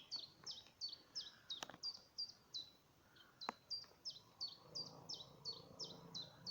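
A bird calling over and over: short high chirps, each dropping sharply in pitch, about three a second.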